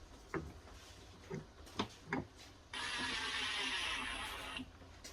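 Light clicks and knocks of refrigerator parts and screws being handled during reassembly, then a steady whirring hiss for about two seconds that starts and stops abruptly.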